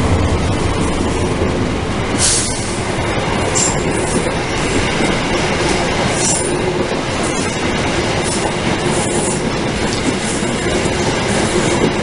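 Long-distance train passing close by: a loud, steady rumble of steel wheels on the rails, with irregular sharp clicks and a few brief high wheel squeals.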